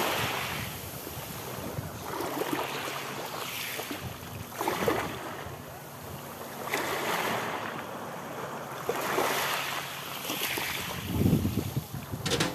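Sea waves washing in and drawing back, swelling and fading every couple of seconds, with some wind on the microphone.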